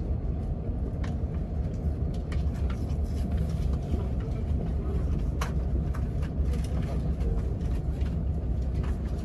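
Steady low rumble of a moving vehicle, with scattered small clicks and knocks.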